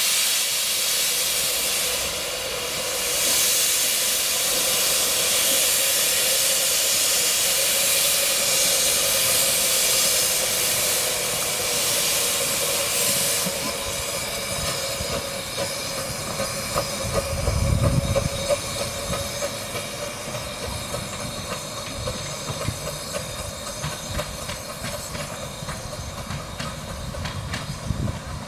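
Steam locomotive of a 15-inch-gauge miniature railway letting off a loud, steady hiss of steam that drops away about halfway through. A low thump follows, then light clicking and clatter from the train.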